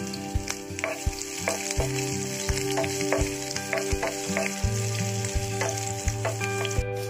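Sliced onions and green chillies sizzling in hot oil in a nonstick frying pan, with a steady hiss. A wooden spatula stirring them clicks and scrapes against the pan about once or twice a second.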